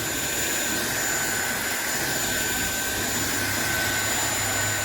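SunSare X7A cordless stick vacuum cleaner running steadily, a constant motor whine over even suction noise.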